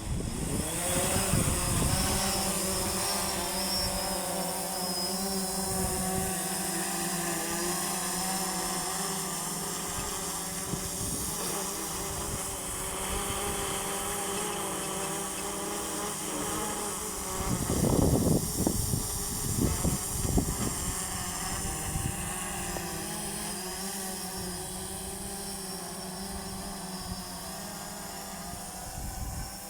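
DJI Phantom 4 quadcopter's four brushless motors and propellers whining, rising in pitch over the first couple of seconds and then holding a steady multi-tone hum. Gusts of wind buffet the microphone for a few seconds past the middle.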